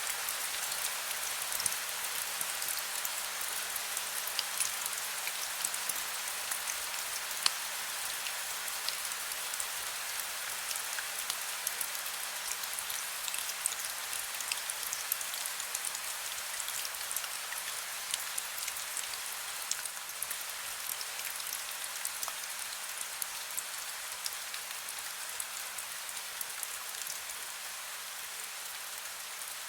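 Heavy rain falling steadily: an even hiss full of many sharp individual drop taps. A faint, steady low hum sits beneath it.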